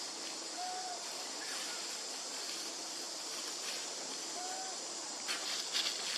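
Outdoor ambience with a steady high-pitched hiss. Two short, arched animal-like calls come about a second in and again about three and a half seconds later, and a burst of crackling and rustling clicks follows near the end.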